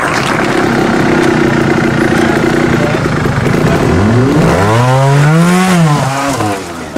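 Trial motorcycle engine running with a steady note for a few seconds. About four seconds in it is revved: the pitch climbs and then drops back over about two seconds.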